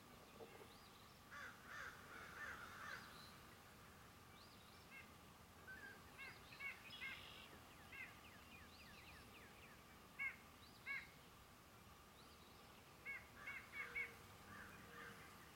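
Several birds calling and chirping at once: scattered short, quick notes and little runs of notes. The loudest are two sharp calls about ten and eleven seconds in and a cluster near fourteen seconds, over a faint steady tone.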